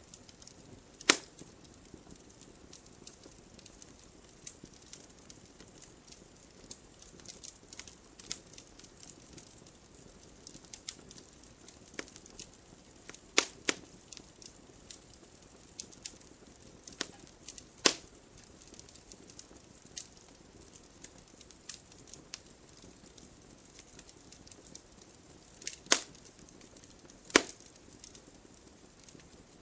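Wood fire crackling: a soft steady hiss with scattered small ticks and a handful of loud, sharp pops from the burning logs.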